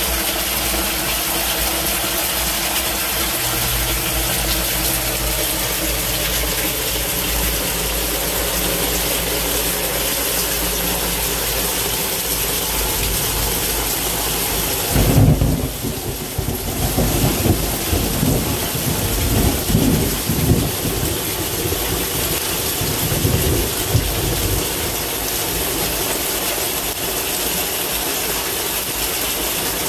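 Heavy rain pouring steadily, with a long low rumble of thunder that breaks in about halfway through and rolls on in uneven swells for several seconds.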